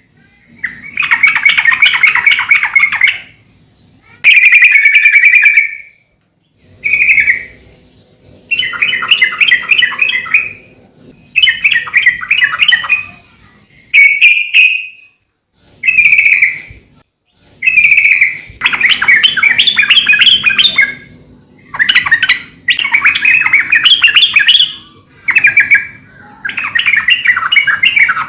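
Yellow-vented bulbul (trucukan) singing at full voice: a string of loud, quick chattering phrases, each a second or two long, repeated again and again with short pauses between.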